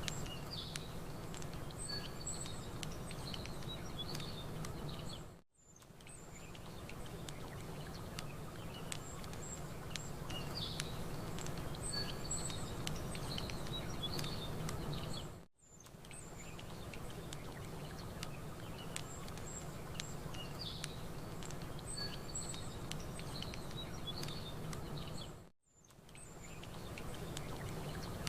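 Campfire crackling with small quick pops over a low steady hush of lapping water, while small birds chirp and twitter in the background. The whole mix dips out and fades back in three times, about ten seconds apart.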